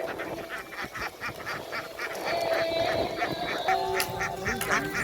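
A large flock of domestic ducks quacking, many short calls overlapping in a dense, continuous chatter.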